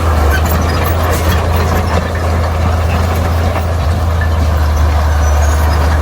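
Heavy diesel earthmoving machinery running, a steady low engine sound with no change in pitch.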